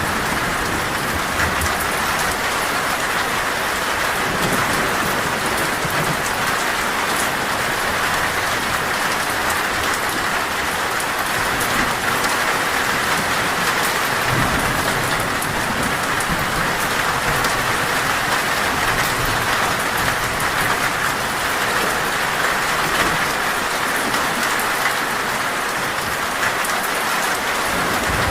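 Torrential rain falling steadily on a metal roof, with now and then a faint low rumble of thunder.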